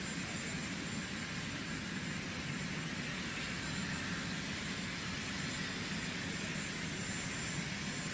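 Steady jet aircraft engine noise: an even rushing hum with a faint high whine, unchanging throughout.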